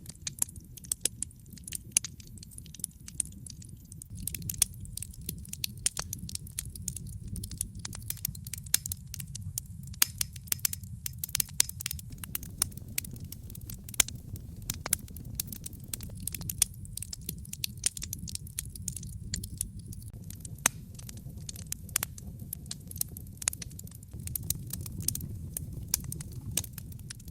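Wood fire burning: a low steady rumble of flames with frequent irregular sharp crackles and pops, some much louder than the rest.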